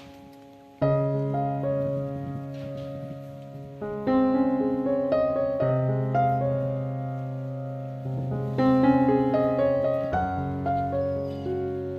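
Background piano music: slow, sustained chords with bass notes, a new chord struck every couple of seconds.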